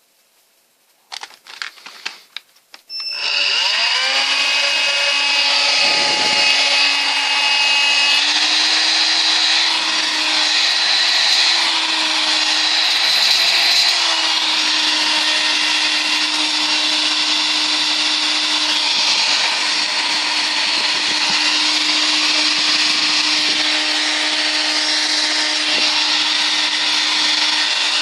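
A few clicks and handling knocks, then about three seconds in an Electrolux ZB3114AK 18V cordless stick vacuum switches on: its motor spins up with a rising whine and then runs steadily at full suction on its newly replaced lithium battery pack.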